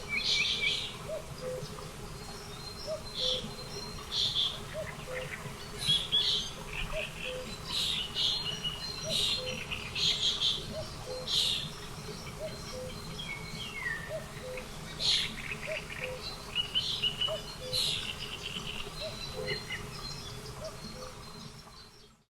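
Small birds chirping and singing in short high phrases, on and off. Under them a faint low note repeats steadily, a little more than once a second.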